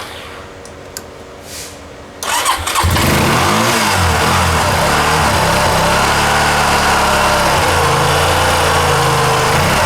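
2007 Honda Rancher 400 ATV's single-cylinder engine cranked by its starter, jump-started through jumper cables because its own battery is dead; after a short pause with a click it turns over briefly, catches about three seconds in and settles into an idle whose speed wavers up and down.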